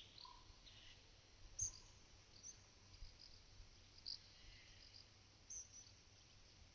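Faint pasture ambience with small birds giving scattered short, high chirps over a quiet hiss.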